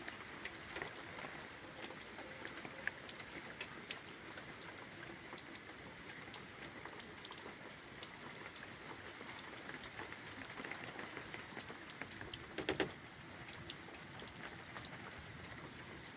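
Steady rain pattering, with individual drops ticking on nearby surfaces. A short, louder clattering sound comes about three-quarters of the way through.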